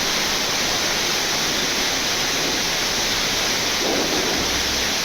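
Steady rushing hiss of airflow in a Boeing 787-9 flight deck, with a brief duller swell about four seconds in.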